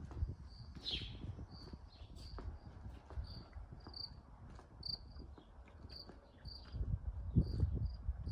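Outdoor ambience of short, high chirps repeating about twice a second, with a single downward-sweeping bird call about a second in. An irregular low rumble runs underneath and grows louder about seven seconds in.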